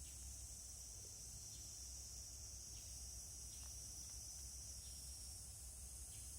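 Faint, steady high-pitched insect chorus, like crickets, over a low background hum, with a few light ticks.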